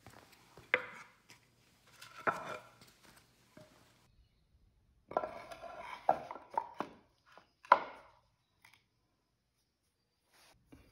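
Workshop knocks and clatter: hard objects striking wood or metal in a few short clusters of sharp taps, with quiet gaps between.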